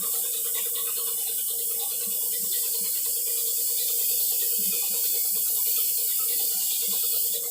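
Paint being sprayed onto a motorcycle exhaust: a steady hiss with a steady low hum underneath.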